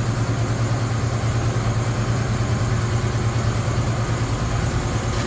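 An engine idling steadily with a low hum and a fast, even pulse.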